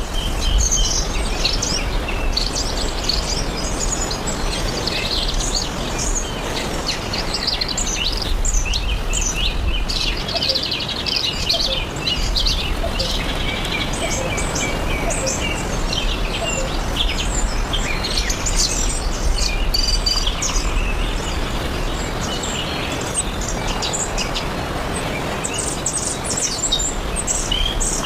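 Many small birds chirping and calling over one another in a dense, continuous chorus, over a steady low rumble.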